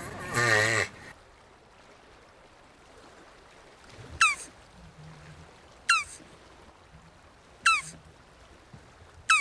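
A jabuti (red-footed tortoise) groans briefly at the start, then four short, high calls sliding down in pitch come about every second and a half to two seconds, with faint low grunts between them.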